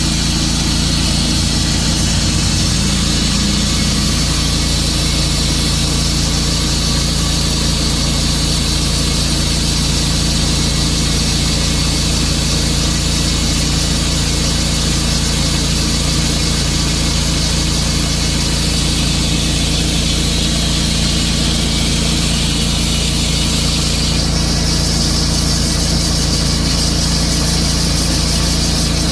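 Tru-Cut sawmill's engine running steadily. About 24 s in, a brighter, hissier sound joins it, the start of the cut into the wood.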